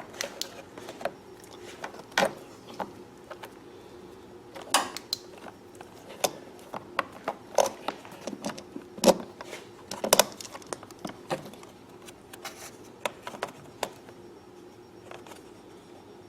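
Scattered clicks and light knocks of hands working plastic hoses and small parts on the open generator, busiest in the middle and thinning out near the end, over a faint steady hum.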